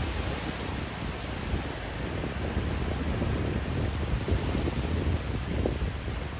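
Steady rushing white noise for sleep, weighted toward a deep low rumble that wavers slightly.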